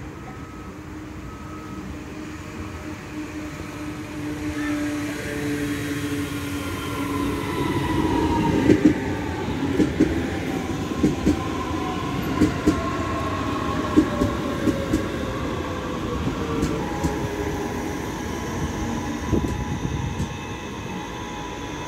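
Train coming past close by. A whine in several tones falls slowly in pitch over about ten seconds as the train slows, and the wheels click sharply over rail joints; the train is loudest about a third of the way in.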